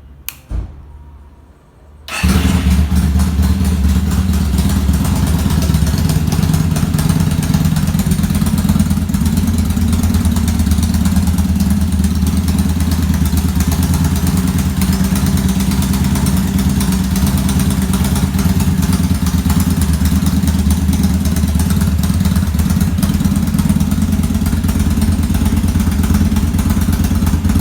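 Vblade 250 custom motorcycle's engine starting about two seconds in, just after a click, then idling steadily with no revving.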